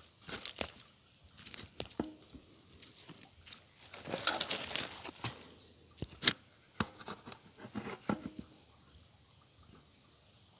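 Scattered rustling, crunching and clicking of dry leaves and loose gravel being handled close to the microphone, with a longer rustle about four seconds in and a few sharp clicks about two seconds later.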